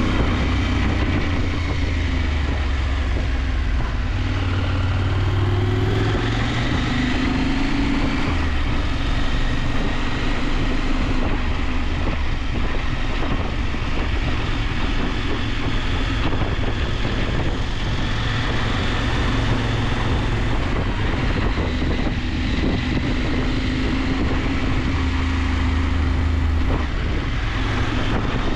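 KTM 890 Adventure's parallel-twin engine running under way, its pitch rising and falling several times as the throttle opens and closes, over a steady rush of wind noise.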